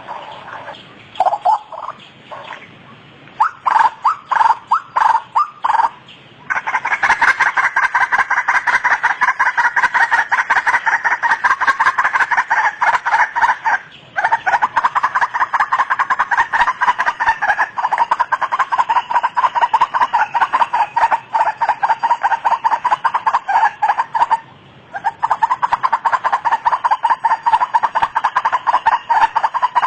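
White-breasted waterhen (ruak-ruak) calling: a few separate notes at first, then from about six seconds in a rapid, continuous run of repeated notes, broken by two short pauses.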